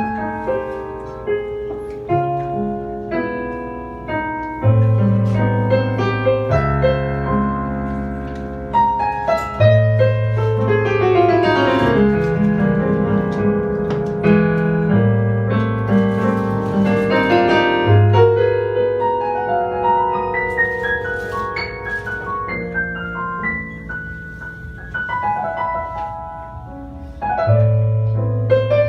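Small jazz band playing live, with the piano to the fore.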